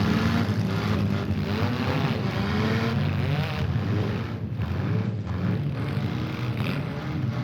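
Several demolition derby cars' engines running and revving at once, their pitch rising and falling as the drivers rev up and back off.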